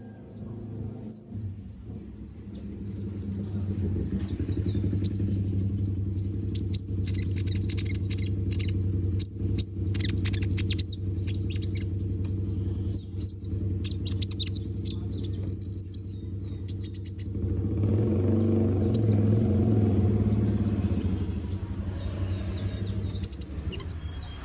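A kolibri ninja (konin) sings in bursts of rapid, high chirps and twitters, thickest in the middle and with a few more near the end, as it runs through its full repertoire. Under it a steady low hum runs throughout and swells for a few seconds after the singing thins out.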